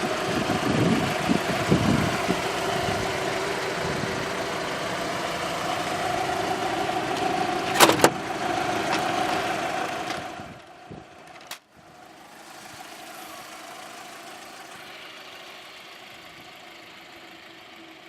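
Volkswagen Bora's 1.6-litre 8-valve inline-four idling steadily, with a sharp knock about eight seconds in. Near the middle there is a click, and after it the engine sounds much quieter.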